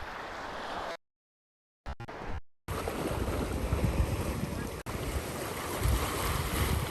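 Wind buffeting the microphone over the wash of surf on a beach, a fluctuating low rumble with a steady hiss. The sound drops out to dead silence twice in the first three seconds.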